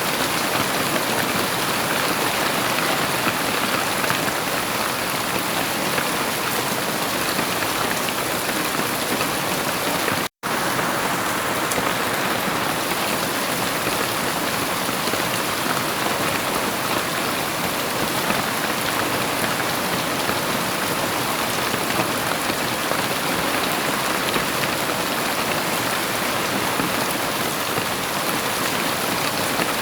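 Heavy rain falling in a steady, even hiss. The sound cuts out completely for a split second about ten seconds in, then resumes unchanged.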